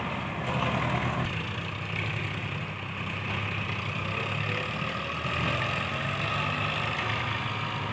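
Diesel engine of heavy earth-moving machinery running steadily.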